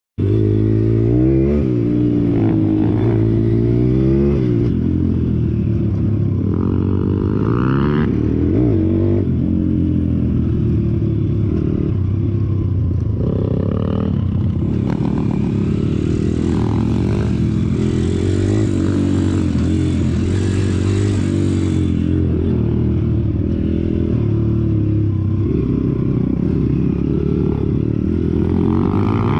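Pit bike engine running under riding, its pitch rising and falling again and again as the throttle is opened and closed. A higher hiss joins for several seconds midway.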